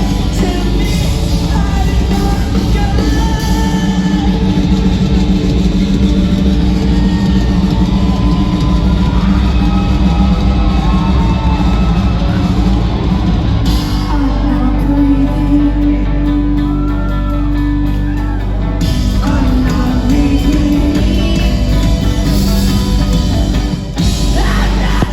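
Live rock band playing loud, dense music with sung vocals. A little past the middle the high end thins out for about five seconds while a held note carries, then the full band returns.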